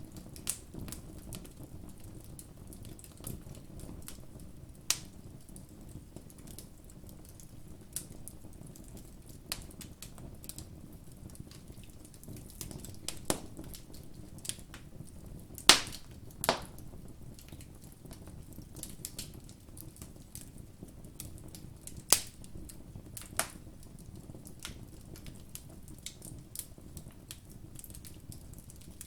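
Campfire crackling: irregular sharp snaps and pops of burning wood over a low steady rush, with a handful of louder pops, the loudest about halfway through.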